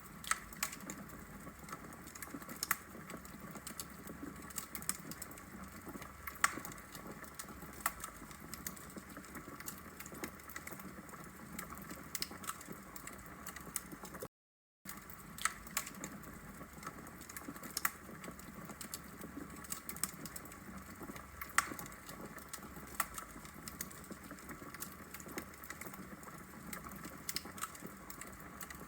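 Wood logs burning in a fireplace, crackling with frequent sharp pops over a steady low hiss. The sound cuts out completely for about half a second about halfway through.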